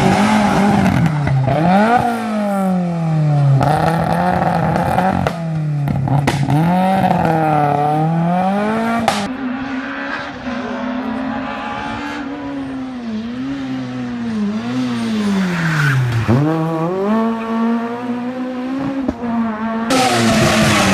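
Small Fiat rally car engine being driven hard: the revs climb and drop sharply again and again as it shifts through the gears and brakes for corners.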